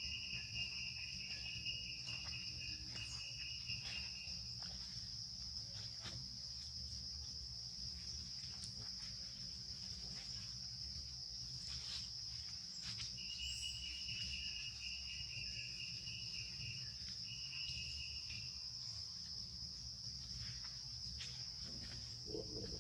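Insects droning steadily at a high pitch, with a second, lower insect trill joining in two long bouts, over a steady low rumble.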